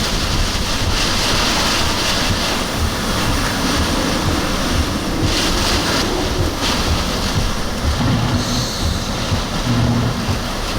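Hurricane-force wind in the eyewall of a major hurricane, a loud steady rushing with heavy gusts buffeting the microphone.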